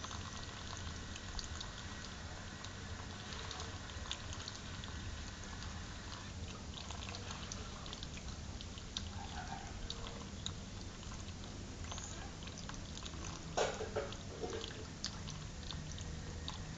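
Water running steadily over a pet parrot taking a shower, with scattered drips and ticks and a few short parrot calls, one louder call about three-quarters of the way through.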